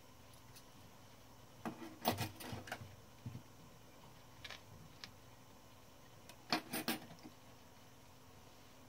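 Small metal parts of a 1912 Mercedes No. 3 typewriter clicking and clinking as a key bar is handled and fitted into place: a cluster of clinks about two seconds in, a few single ticks, and another short cluster near seven seconds.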